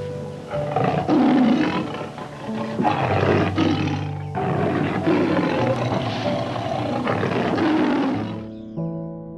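An animal roaring several times over background music.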